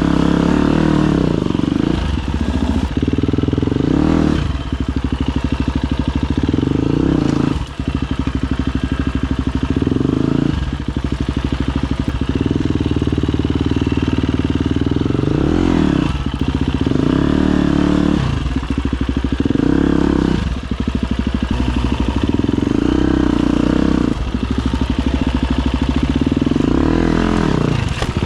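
Husqvarna FE250 enduro motorcycle's single-cylinder four-stroke engine revving up and falling back again and again as the throttle is opened and closed every few seconds.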